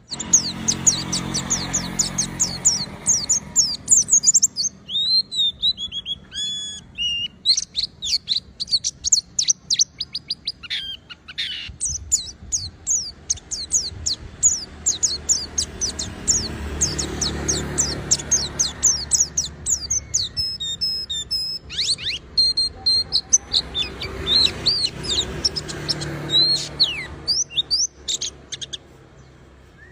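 White-eye (pleci) singing on and on in fast runs of high chirps and trills, with a few slower rising and falling whistled notes in between.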